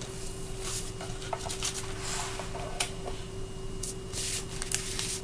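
Paper rustling in short irregular bursts, as book pages are turned and handled, over a steady faint hum.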